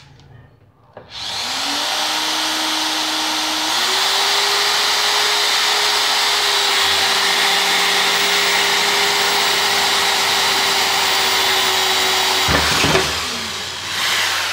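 Bosch GSR 7-14 E corded drill/driver drilling through 14-gauge steel rectangular tubing with a 1/4-inch bit. The motor spins up about a second in, its pitch steps higher a few seconds later and holds steady under load. Near the end there is a short clatter and the motor winds down as the bit breaks through.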